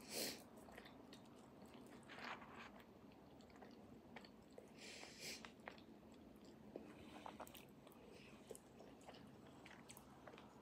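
Faint close-up chewing of an empanada: soft, wet mouth clicks scattered throughout, with a few short breathy bursts near the start, about two seconds in and about five seconds in.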